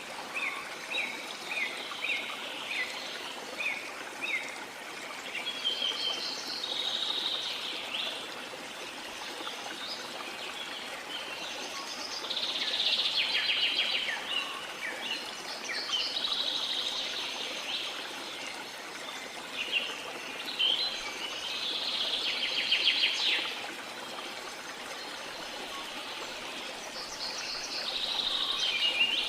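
Rainforest ambience: the steady rush of a flowing river, with birds calling over it. There are short repeated chirps at first, then several longer trilling phrases.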